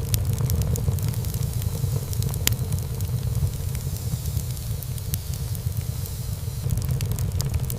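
Wood fire burning in a fireplace: a steady low rumble of flames with frequent small crackles and pops of burning wood, and one sharper pop about two and a half seconds in.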